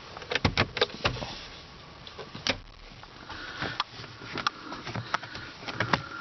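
Sharp clicks and knocks from handling things in the car's cabin. There is a quick run of about five in the first second, then more scattered through the rest.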